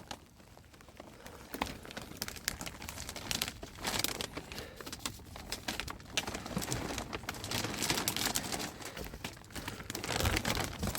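Plastic sheeting crinkling and rustling as it is handled, with many small crackles, getting louder near the end.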